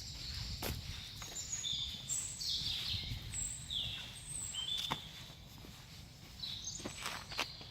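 Woodland birds singing: a string of short, high whistled notes, several of them falling in pitch, over a low wind-like rumble, with a few sharp clicks like twigs snapping underfoot.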